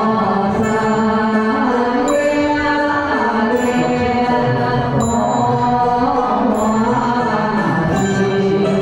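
Chant-like vocal music with sustained pitched lines that glide from note to note.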